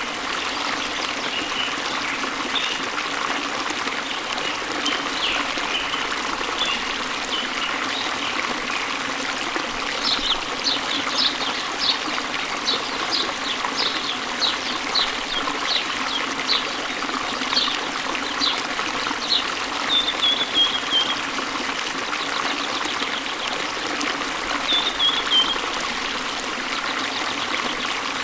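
A stream flowing steadily with birds singing over it. From about ten seconds in, a bird gives a run of short repeated falling notes, followed by a few longer slurred downward calls.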